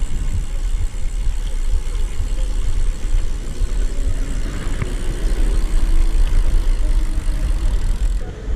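Steady low rumble of wind buffeting an action camera's microphone during a bicycle ride, mixed with road noise.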